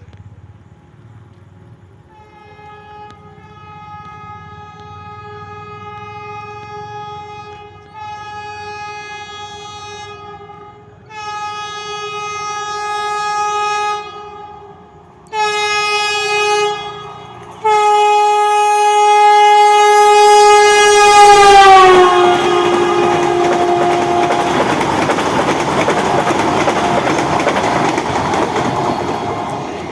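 Metro train sounding its horn in about five blasts that grow louder as it approaches. The horn's pitch drops as the train passes about two-thirds of the way in, and the loud rumble and clatter of its cars follow, easing off near the end.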